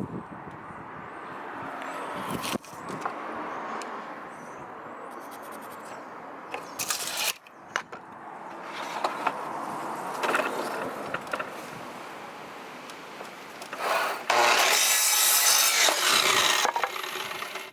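Wood being worked by hand: a continuous scraping and rubbing of wood, with a few knocks, and a louder, harsher stretch near the end.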